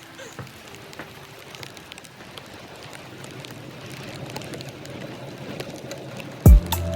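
Rental bicycle's tyres hissing on a wet, slushy road, growing slightly louder. A sudden loud thump comes near the end, and music starts.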